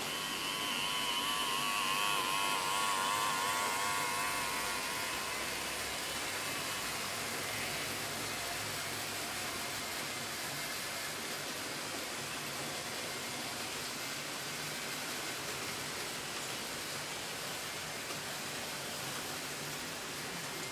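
00 gauge model train running on the layout: a steady rushing noise of motor and wheels on the track. It swells about two to three seconds in, with a faint wavering high tone over the first few seconds.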